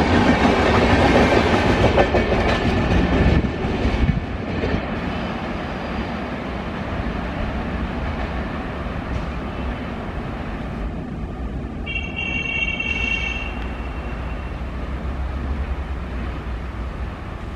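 Passenger train running along the track, louder and denser for the first few seconds, then settling into a steadier, lower rumble with wheel clatter. A short high tone sounds briefly about twelve seconds in.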